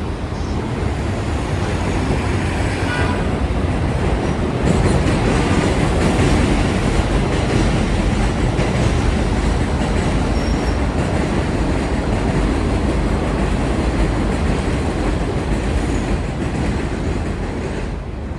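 Elevated subway train passing on the tracks over the street, building over the first few seconds, running steadily, then fading near the end.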